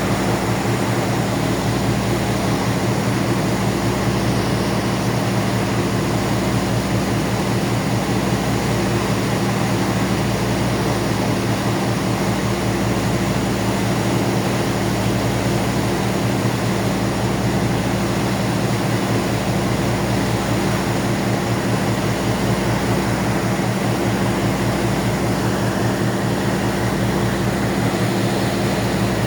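Ferry's engines running with a steady, unchanging drone made of several low hum tones.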